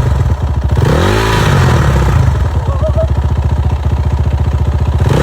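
Motorcycle engine idling, revved once by a short twist of the throttle about a second in, then settling back to a steady idle.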